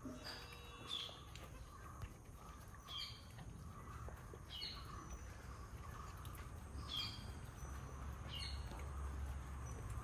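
Faint outdoor background with a small bird chirping now and then: short, high, falling notes every second or two.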